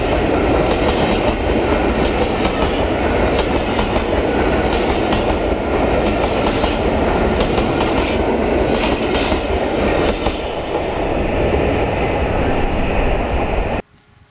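Passenger coaches of a steam-hauled train rolling past at speed, their wheels clicking over the rail joints, with strong wind on the microphone. The sound cuts off suddenly near the end.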